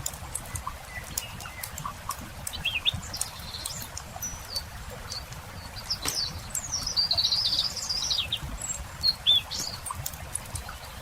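Small songbird chirping in short rising and falling phrases, with one longer warbled phrase about halfway through, over the scattered pops and crackle of a wood campfire.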